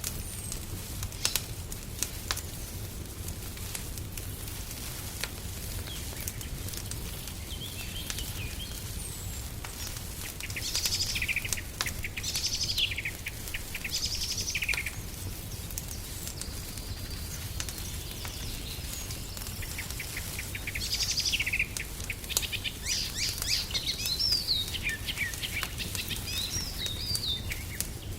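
Wood fire crackling in a fireplace, with scattered sharp pops over a low steady rumble. Songbirds sing short chirping phrases from about ten seconds in, and again in a longer run from about twenty seconds in.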